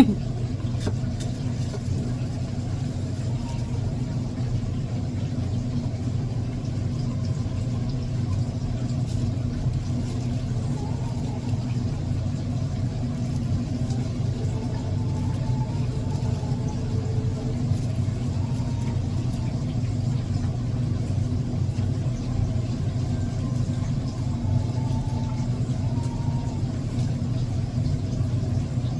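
A steady low mechanical hum that runs unchanged, with no knocks or rhythm in it.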